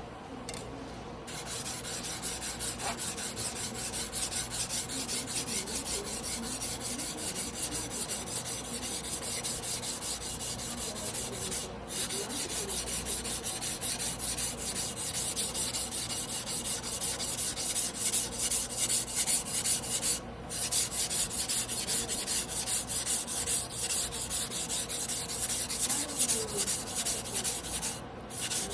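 A long carbon-steel Damascus yanagiba, a Tojiro, being hand-sharpened on a whetstone: steel scraping back and forth across the stone in quick continuous strokes. The strokes stop briefly three times, about twelve, twenty and twenty-eight seconds in.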